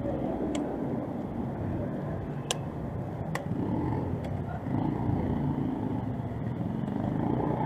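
City street traffic: a steady rumble of passing vehicles with faint voices mixed in and a few short sharp clicks.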